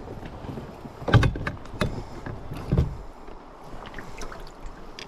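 Several sudden splashes and knocks at the water right beside an inflatable fishing raft as a hooked rainbow trout is fought close in, the loudest about a second in.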